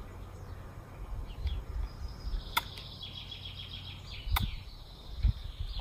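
A small bird calling in a quick run of repeated high chirps, starting about two seconds in. Under it is a steady low rumble, with two sharp clicks and a dull thump from the pouring of gesso into a palette.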